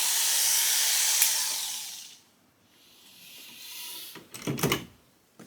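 Oster electric grooming clipper running with an Artero clipper blade fitted, a steady high buzz, then switched off about two seconds in and winding down. A few light knocks follow near the end as the clipper and blade are handled.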